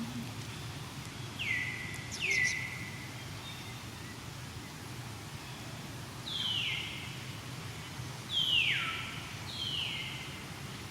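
Five short, high calls, each sliding down in pitch: two close together near the start and three more in the second half, the fourth the loudest and dropping lowest. A steady low background hum runs beneath them.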